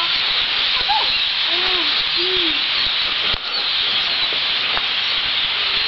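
Massed chatter of a huge winter flock of songbirds, a dense continuous hissing din. A few short, low calls that rise and fall sound over it.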